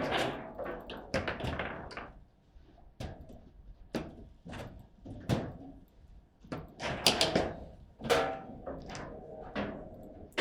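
Table football game in play: a string of sharp knocks and thuds at uneven intervals as the ball is struck by the rod figures and hits the table, with a loud cluster of hits about seven seconds in.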